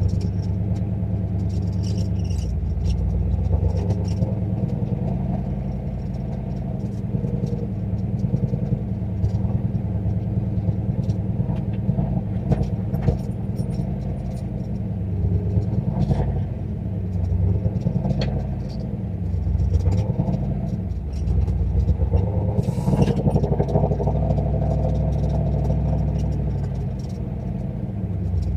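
Turbocharged 351 Windsor V8 in a Fox-body Mustang driving on its short turbo downpipe exhaust, the engine note rising and falling with throttle several times. There is one sharp clatter about three-quarters of the way through.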